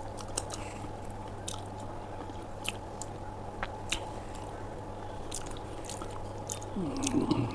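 Close-miked mukbang chewing and biting of aloo paratha with dahi, with scattered wet mouth clicks and smacks over a steady low hum. A short voiced sound comes near the end.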